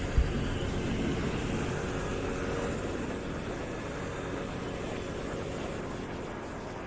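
Motorcycle engine running steadily on the move, with road and wind noise, easing off slightly toward the end. A short low thump comes just after the start.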